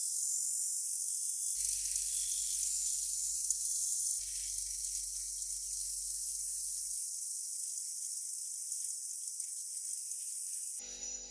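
Steady high-pitched hiss like spraying or running water, cut off and restarting abruptly about one and a half and four seconds in. Music starts near the end.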